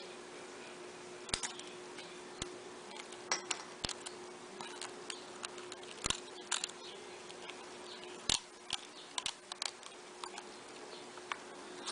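Irregular small sharp clicks and taps of hand tools working on a smartphone during disassembly, over a faint steady hum.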